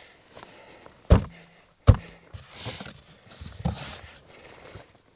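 Two heavy thuds on the cabin's wooden panels, about a second apart, each with a short low ring, as a panel is knocked into place. Softer shuffling and crunching follows.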